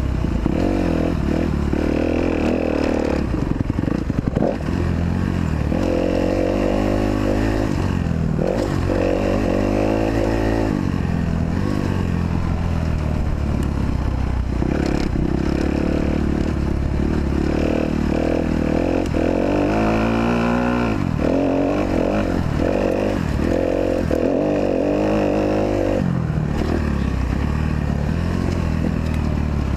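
Kawasaki KX250F four-stroke single-cylinder motocross engine being ridden hard, revving up and dropping back again and again as the rider accelerates, shifts and rolls off. There is rattling and clatter from the bike over the track.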